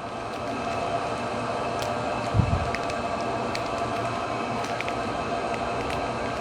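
Steady mechanical background hum with a few faint clicks and a soft low thump about two and a half seconds in.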